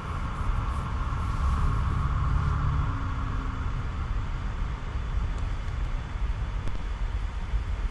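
Rock-hauling trucks driving down past the gate, their engines a steady low rumble that is loudest a second or two in.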